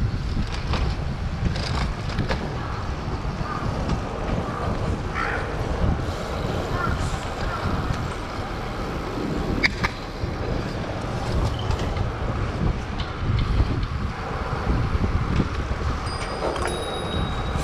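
Wind buffeting a helmet- or bike-mounted action camera's microphone while riding a bicycle through city traffic, with a steady rumble of passing vehicles and scattered clicks. A few thin, steady high tones start near the end.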